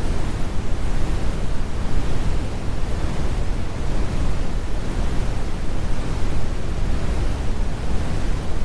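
Steady brown noise: a deep, even rumble strongest in the low end with the highs rolled off, unchanging throughout.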